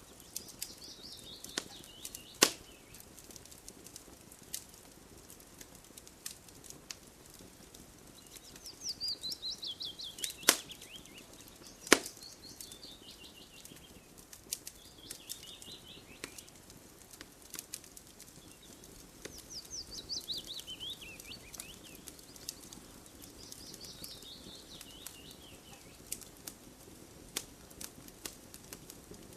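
Campfire crackling with scattered sharp pops, the loudest about 2.5 and 12 seconds in. A bird sings a short run of quick notes falling in pitch, repeated about five times.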